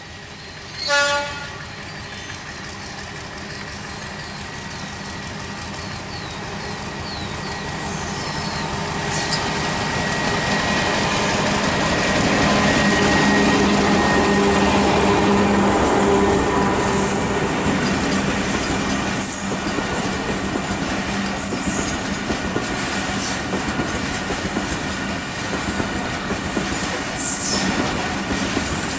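A diesel locomotive gives one short horn blast about a second in. Its engine then grows louder as it passes close by at speed. After that comes the steady rumble of a long rake of tank wagons, with their wheels clattering and clanking over the rail joints.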